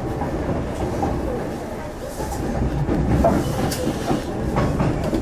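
Yoro Railway local electric train running, heard from inside the passenger car: a steady rumble of the car on the track, with wheels clicking over rail joints a few times in the second half.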